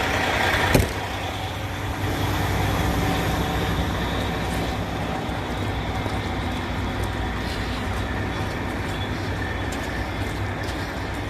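A trailer door slams shut about a second in, followed by steady rain noise over the low idle of a semi truck's diesel engine.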